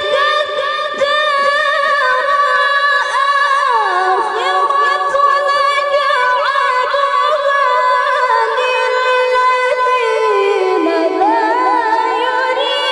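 A female Quran reciter (qari'ah) chanting tilawah unaccompanied in a high, clear voice: one long melismatic phrase full of ornamented turns. The pitch steps down about four seconds in, sinks lower near ten seconds, then climbs again near the end.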